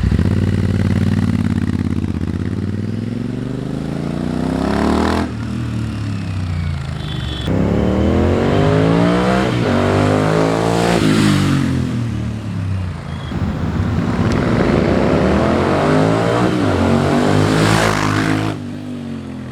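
Royal Enfield Interceptor 650's parallel-twin engine through a Powerage Performance aftermarket exhaust with its dB killers fitted, accelerating past in several fly-bys. The revs climb through the gears, and the pitch drops as the bike goes by. The passes are joined by abrupt cuts.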